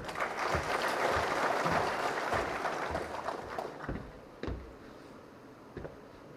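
Audience applauding: the clapping starts at once, holds for about three seconds and dies away about five seconds in.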